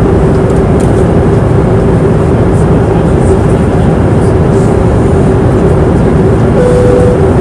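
Airliner cabin noise in flight: a steady, loud rush of engine and airflow with a constant low hum running through it, and a short tone near the end.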